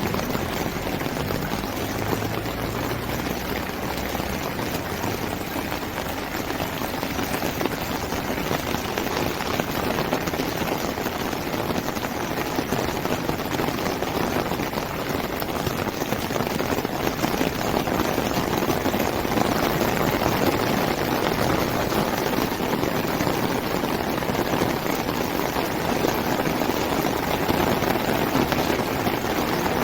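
Steady rush of heavy rain and running water, with a low rumble that fades out in the first few seconds.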